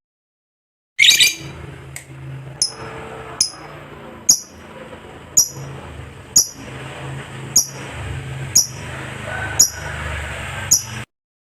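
Lovebird giving a short, loud chattering burst, then a run of short, sharp, high chirps about once a second over a low background hum. The sound starts suddenly about a second in and cuts off abruptly near the end.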